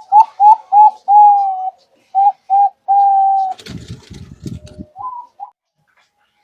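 Zebra dove (perkutut) singing its cooing song: a quick run of short, clear notes, then longer drawn-out coos. About halfway through there is a brief low rumbling noise, and two more short notes follow near the end.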